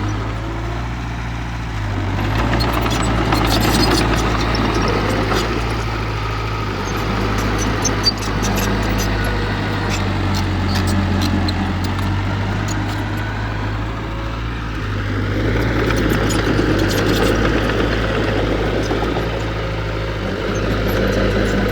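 Heavy diesel engine of an earthmoving machine running steadily, swelling louder twice as it takes load, with light clanking and a sharp click about 8 seconds in.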